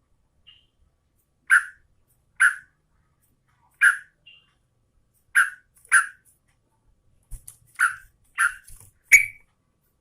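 Yellow-vented bulbul (trucukan) giving short, sharp calls, roughly one a second and coming faster near the end, with a few faint higher notes between them.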